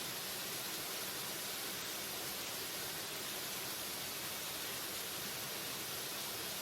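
Waterfall: a steady, unbroken rush of falling water, even and hissy, with no changes or separate splashes.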